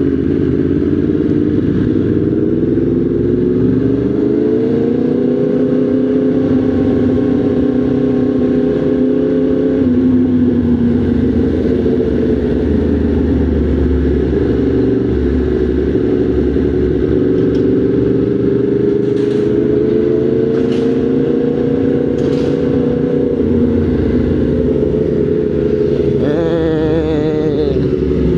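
Motorcycle engine running under way, its pitch rising about four seconds in, dropping back about ten seconds in, climbing again later and easing off near the end.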